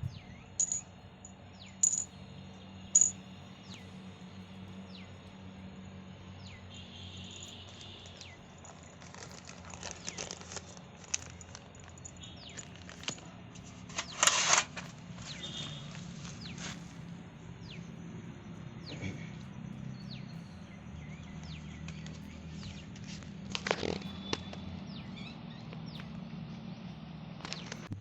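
Small birds chirping, with short repeated high chirps and thin falling whistles, over a steady low hum. A few knocks break in, the loudest about halfway through and another near the end.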